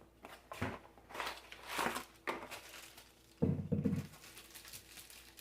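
Handling noises: scattered rustles and a few light knocks, with a short cluster of knocks a little past the middle.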